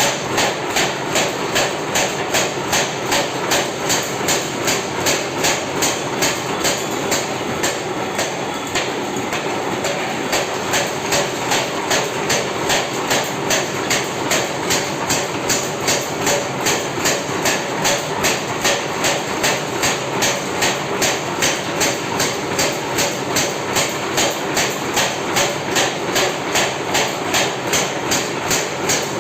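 Forging hammer striking hot iron in a steady, fast rhythm of blows, one after another without a break.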